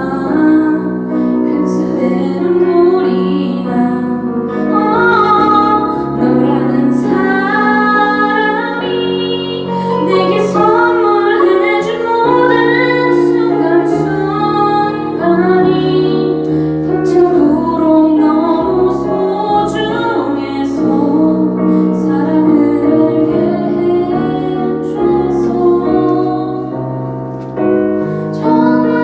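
A woman singing a slow Korean pop ballad live, over sustained instrumental accompaniment.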